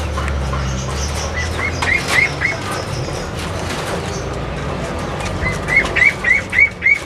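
A bird calling in two quick runs of short, repeated chirps, the second run longer and louder, near the end.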